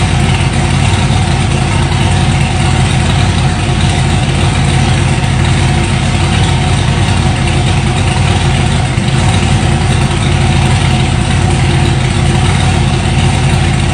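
Twin-turbocharged 408 cubic inch LQ4 stroker V8 idling steadily, with no revs.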